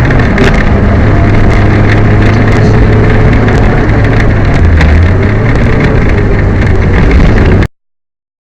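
Peugeot 205 rally car's engine running hard, heard loud from inside the car, with scattered sharp ticks and knocks over it. The car is running with a misfire. The sound cuts off suddenly near the end.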